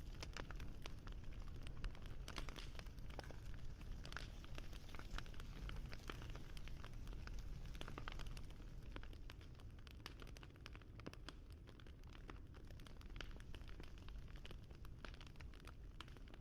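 Wood fire crackling: a steady low rumble with many small irregular pops and snaps, busier in the first half.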